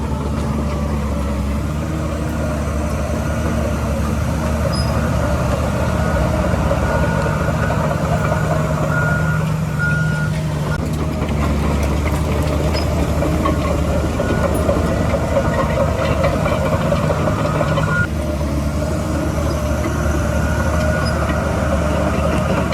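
Heavy diesel earthmoving machinery running steadily at a construction site, with a reversing alarm beeping a few times around the middle.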